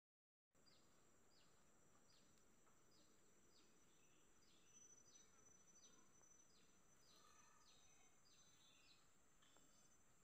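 Faint garden ambience: a bird repeats a short, high, downward-sliding call about every half second, over a steady thin high insect drone.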